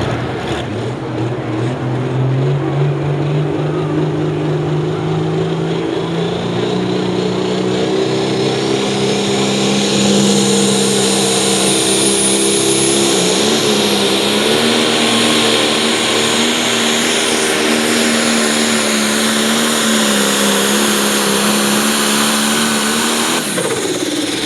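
Pulling tractor's turbocharged diesel engine at full throttle hauling the sled down the track. It climbs in pitch over the first few seconds, then holds high and steady for about twenty seconds with a thin high whistle above it, and drops off near the end as the run finishes.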